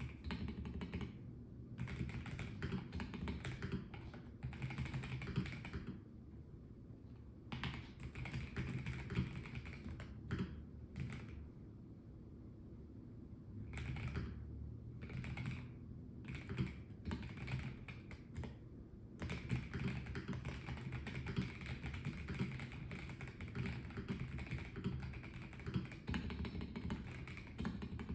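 Typing on a Melgeek Mojo84 mechanical keyboard with a plastic case. The keystrokes come in quick bursts with short pauses, with a few lone key presses around the middle, then run near-continuously through the second half.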